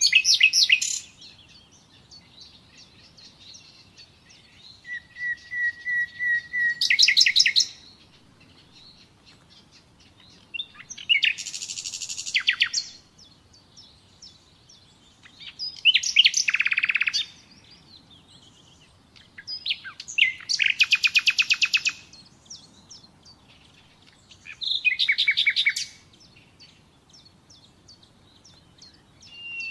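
Common nightingale singing: short phrases of rapid repeated notes and trills, one every four to five seconds, with quiet gaps between. One phrase opens with a run of level whistles that breaks into a loud rapid rattle.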